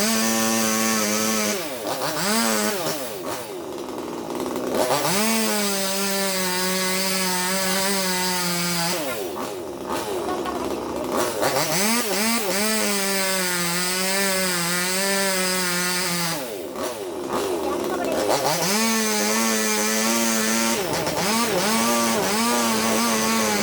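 Chainsaw running, revved up three times and held at high speed for several seconds each time, its pitch wavering as it cuts, then dropping back toward idle in between.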